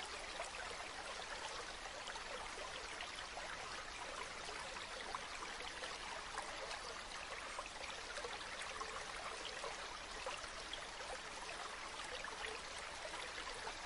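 A river running: a steady rush of flowing water, flecked with many small splashes.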